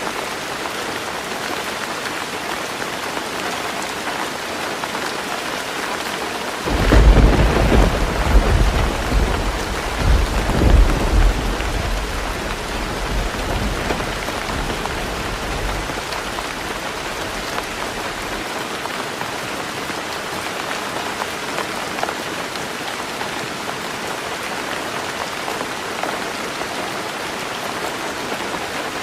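Heavy rain falling steadily on a tin roof. About a quarter of the way in, thunder breaks suddenly and rumbles loudly for several seconds, then fades away, leaving the rain alone.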